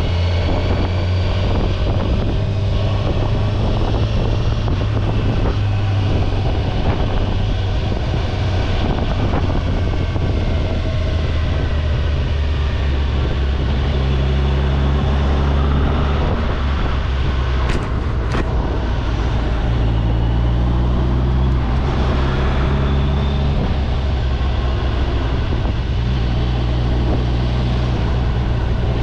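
Kawasaki Ninja 1000SX inline-four engine running under way, with wind and road noise; its steady drone shifts in pitch a couple of times, as with throttle or gear changes.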